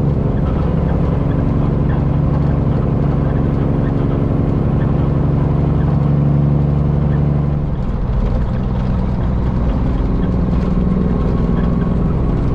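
Peterbilt semi truck's diesel engine running steadily under way on the highway; about eight seconds in, its note drops and changes, then holds steady again.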